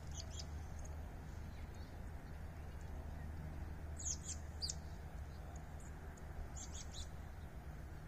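A small bird chirping in short, high, quick clusters, once near the start, about four seconds in and again about six and a half seconds in, over a steady low rumble.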